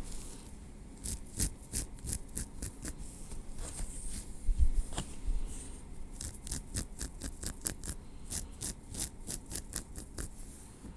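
Metal tweezers clicking and picking close to the microphone in quick runs of sharp, high ticks, several a second, with a short pause and a couple of soft low bumps midway.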